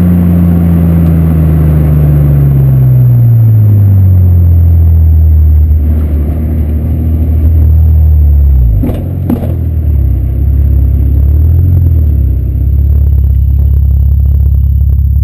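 Ford Probe 24-valve V6 through its stock exhaust, the revs falling steadily over the first few seconds, then running at steady low revs. Two sharp clicks come about nine seconds in, with a brief dip in the engine note.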